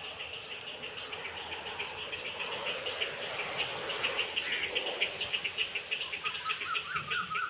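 Insects, cricket-like, chirping in a fast steady pulse over a background hiss, with a short wavering call joining near the end.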